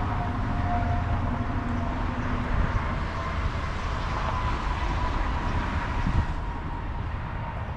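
Outdoor rumble of vehicle traffic, most likely trucks and cars on the nearby interstate or in the lot. It is a steady rushing noise that fades off about six seconds in, as a vehicle passes.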